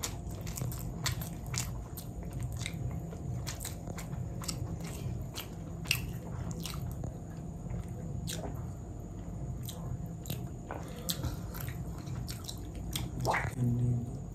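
Close-up chewing and mouth sounds of someone eating fried rice and chicken curry: many short wet clicks and smacks over a low steady hum. Near the end comes a short voiced 'mm' with a falling pitch.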